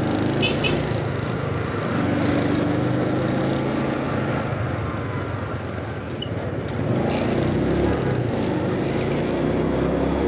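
Motorcycle engine running under way, with wind and road noise; it eases off around the middle and picks up again a couple of seconds later.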